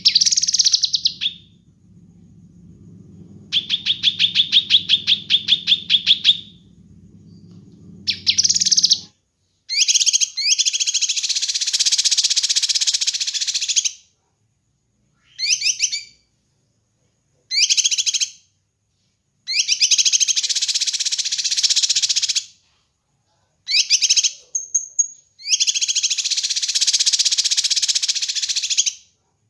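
Kinoi songbird singing loudly in repeated phrases: a fast stuttering trill of evenly spaced notes early on, then long harsh chattering bursts of three to four seconds, broken by short calls and sudden silences. A low hum sits under the first nine seconds or so and cuts off abruptly.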